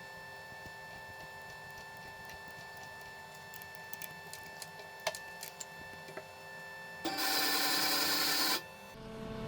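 Light metallic clicks and ticks from a tap being worked into a small drilled hole, over a steady workshop machine hum. About seven seconds in, a louder, even burst of machine noise lasts about a second and a half, then stops.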